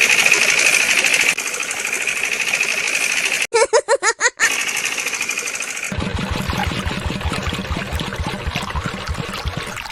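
The small motor of a DIY miniature tractor and water-pump model running with a high, steady buzz, broken by a brief warbling tone about three and a half seconds in. From about six seconds in it changes to a rapid rhythmic knocking, like a chugging engine.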